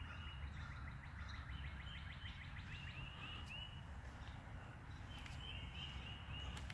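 Songbirds singing outdoors: quick runs of short, high chirps repeating over a steady low rumble.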